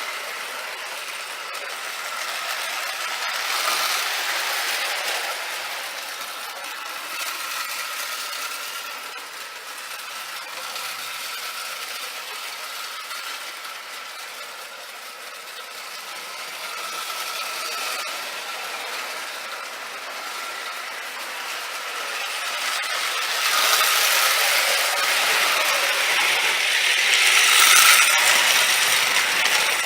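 Marx No. 999 O-gauge toy locomotive running on tinplate track: a steady whir of its electric motor and gears with the rattle of wheels on the rails, louder as it comes near in the last few seconds. The engine has no traction tire and struggles for grip pulling its cars.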